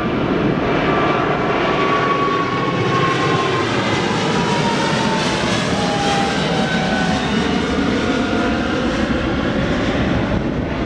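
Airliner's jet engines passing close by, a loud steady rush with a whine that slides down in pitch as the plane goes past.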